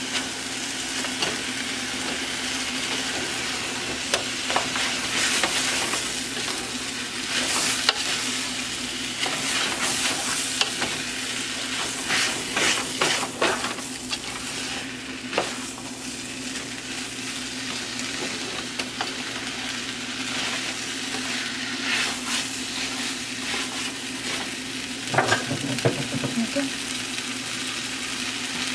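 Chow mein noodles and vegetables sizzling in a large aluminium pot as they are tossed with tongs: a steady frying hiss, with the tongs clicking and scraping against the pot now and then.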